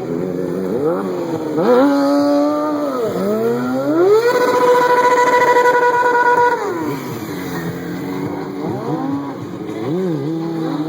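A single high-revving stunt-vehicle engine. It is blipped up briefly about two seconds in, then wound up about four seconds in and held at high revs for a couple of seconds, before dropping back to a low, unsteady idle with small blips near the end.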